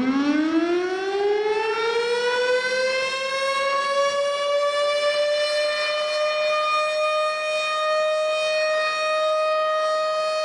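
Tornado warning siren winding up: its pitch rises over the first few seconds, then holds one steady wail.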